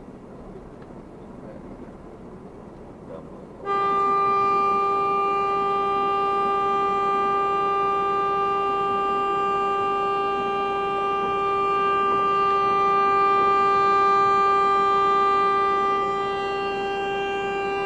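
A vehicle horn held down in one long unbroken blast, coming in suddenly about four seconds in on a single steady pitch and sounding on without a pause; before it there is only low road noise.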